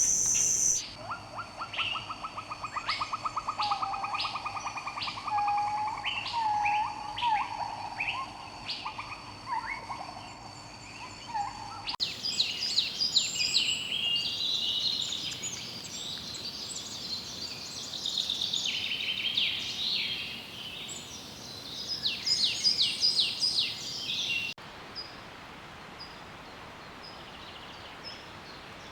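Wild birds singing and calling in a succession of different recordings, with abrupt changes about a second in, about twelve seconds in and near the end. The first stretch has trilled songs and short whistles, and the middle stretch dense high chattering calls. The last few seconds are a faint hiss with only a few weak chirps.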